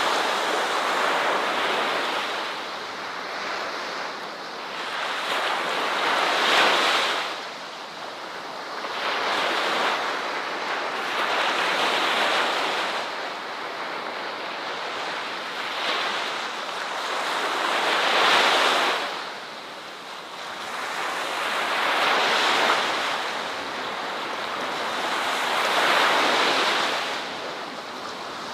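Ocean waves washing onto a shore, the surf noise rising to a peak and falling away every few seconds.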